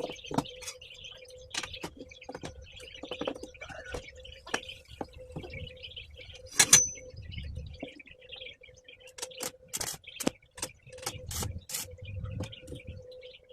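Light metal clinks and taps from handling steel pieces, over a steady hum, with one louder ringing clank about seven seconds in.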